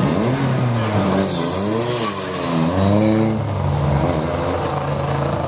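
Toyota saloon race car's engine revving, its pitch rising and falling several times in the first three seconds or so as it pulls out of the pit box and accelerates away, over a steady low engine hum.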